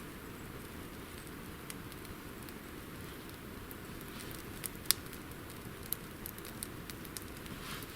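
Small campfire of water-soaked wood crackling, with scattered sharp pops, most of them in the second half, over a steady hiss.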